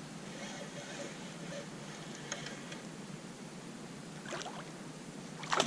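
Quiet, steady water noise around a kayak on a river, with a few light knocks, then a sudden loud burst of noise near the end.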